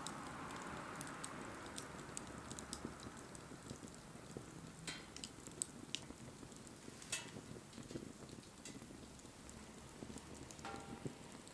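Wood fire crackling, with irregular sharp pops, a few of them louder, over a soft hiss that fades away in the first few seconds.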